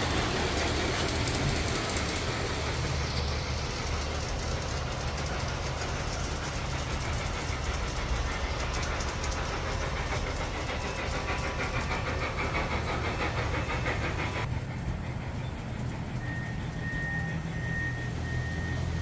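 Hartland Locomotive Works LaPorte large-scale model locomotive running on its track, a steady rolling sound over a low hum. About fifteen seconds in the higher part of the sound drops away, and a high, broken tone comes in.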